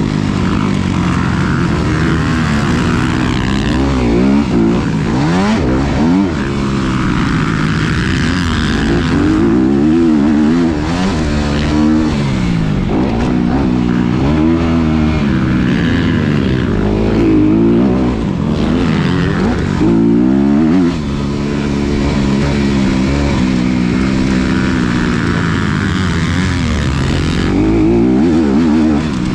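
2019 Honda CRF250RX's single-cylinder four-stroke engine being ridden hard, its pitch repeatedly climbing and then falling back every second or two as the throttle is opened and chopped.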